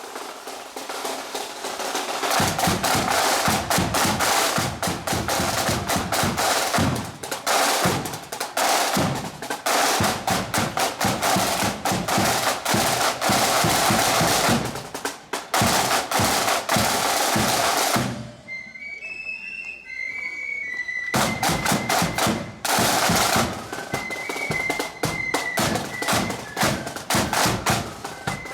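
Parade marching band's snare and bass drums playing a dense, rolling beat. About two-thirds of the way through the drums stop for a few seconds, leaving only high, thin melody notes, then the drums come back in with the melody over them.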